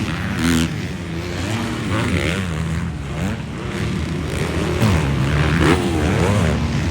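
Several motocross bikes racing on a dirt supercross track, their engines revving up and falling off over and over as they pass.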